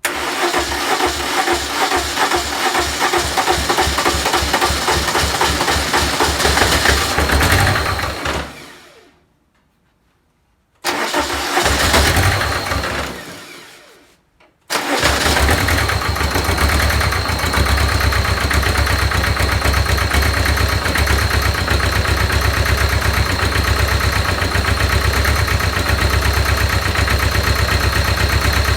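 Simplicity 7790 diesel garden tractor engine started three times. It catches and runs for about eight seconds, then winds down and stops. A second start dies away within a few seconds. A third start, about halfway through, keeps running steadily. The stalling is the fault being chased: it tries to run but won't stay running.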